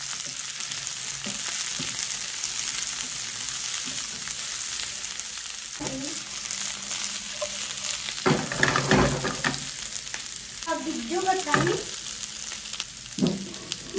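Onion, garlic and bell pepper sizzling steadily in hot oil in a non-stick wok, stirred and tossed with a slotted spatula.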